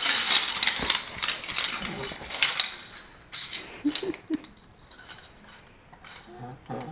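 Plastic toys rattling and clicking as they are handled: a fast run of clicks for the first two and a half seconds, then scattered single clicks.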